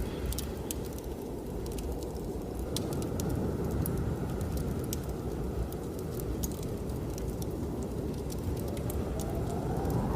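Wood fire crackling with many sharp, irregular pops over a steady low rumble of blizzard wind; near the end the wind rises in pitch in a gust.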